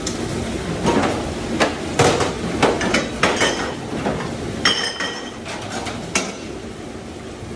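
Dishes, pans and cutlery clattering and knocking together in a string of sharp clanks over several seconds, with one ringing metal clang about halfway through, over a steady background hum.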